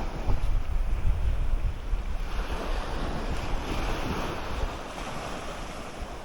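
Surf washing onto a beach, with wind buffeting the microphone in a low rumble.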